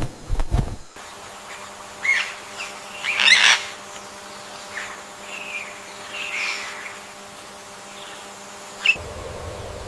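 Birds calling: a handful of short chirps and squawks spread over several seconds, the loudest a cluster about three seconds in, over a faint steady hum. A few low thumps come in the first second.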